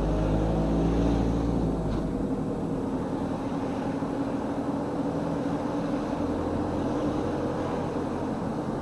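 Car engine and road noise heard from inside the cabin while driving, a steady hum with a deep low rumble that drops away about two seconds in.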